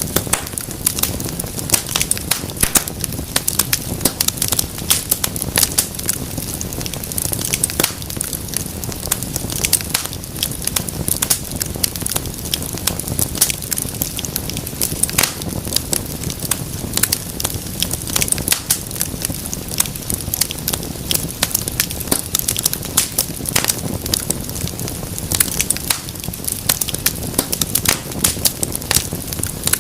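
Wood fire crackling and popping: many sharp snaps at irregular moments over a steady low rumble of burning.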